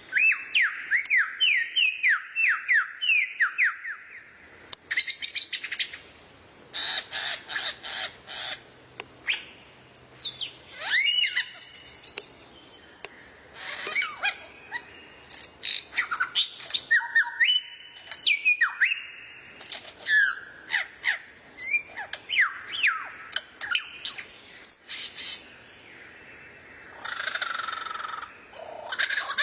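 Songbird song recorded as a tutor tape: a rapid string of repeated sweeping whistles at the start, then varied chirps, trills and sharp whistled notes that change abruptly from phrase to phrase, with a buzzy, rattling phrase near the end.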